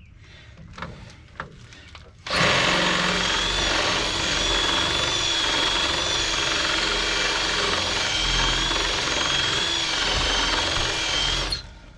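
Electric drill running steadily with a high whine, drilling into the head of a seized fastener that would not come loose. It starts about two seconds in and stops shortly before the end.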